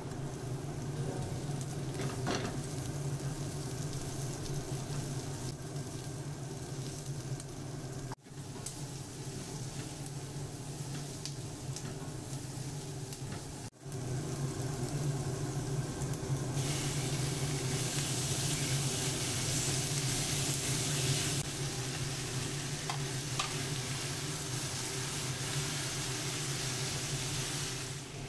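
Diced onion, carrot and then potato and chicken sizzling in oil in a nonstick frying pan over a gas burner, a steady sizzle over a low hum. The sizzle breaks off for an instant twice and is louder for about five seconds past the middle.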